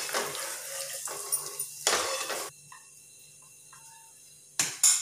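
Flattened rice (aval) sizzling as it deep-fries in hot oil in a metal kadai, stirred with a perforated ladle, with small scraping clicks. The sizzle cuts off abruptly about two and a half seconds in. Near the end come two sharp clatters of the ladle on the pan.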